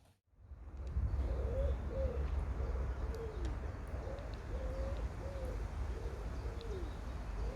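A pigeon cooing: phrases of repeated low hoots, some ending in a falling slide, over a steady low outdoor rumble.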